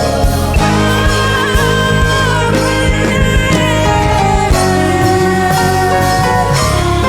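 Live gospel band music: drums and bass keeping a steady groove under guitar and keys, with a high wavering melody line about a second in.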